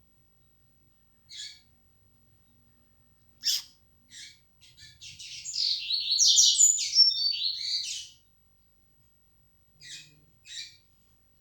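A coleiro (double-collared seedeater) of the Bahian song type singing: a few short sharp chirps, then one fast, warbling song phrase of about three and a half seconds, then two more short chirps near the end.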